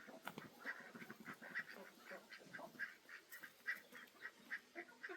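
Farm poultry calling in a faint, quick series of short, evenly spaced notes, about two or three a second.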